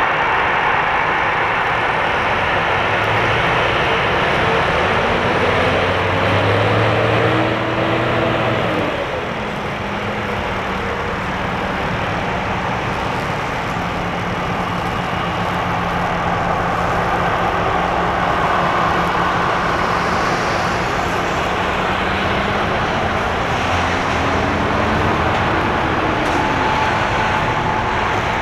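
Steady roar of an Airbus A340-300's jet engines, dropping a little in level about nine seconds in. Twice a tone sweeps up and then falls away.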